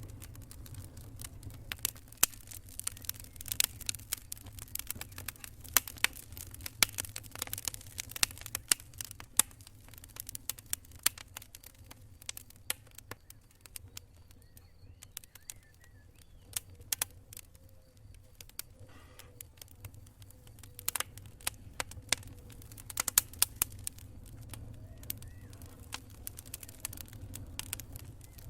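Wood campfire crackling: irregular sharp pops and snaps over a low steady rumble. The pops thin out around the middle and pick up again near the end.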